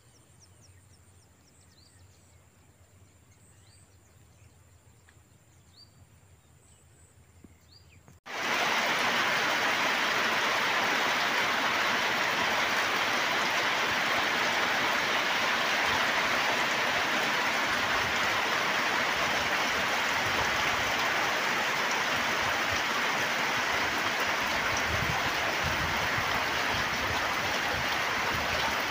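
Faint, scattered high chirps over a quiet background, then about eight seconds in a sudden cut to steady rain falling, a dense hiss.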